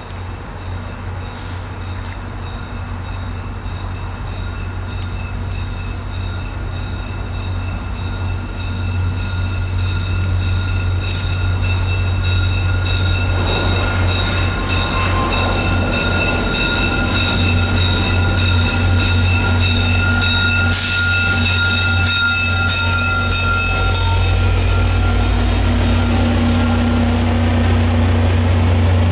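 Train growing steadily louder as it approaches, over a steady low engine rumble. Thin, high, steady squealing tones from the wheels run through most of it, with a brief hiss about two-thirds of the way through.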